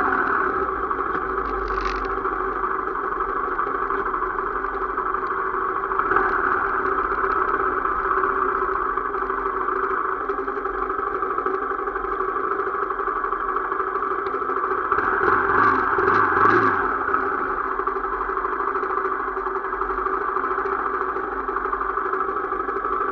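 Motorcycle engine running steadily while riding, a continuous drone that swells briefly about two-thirds of the way through.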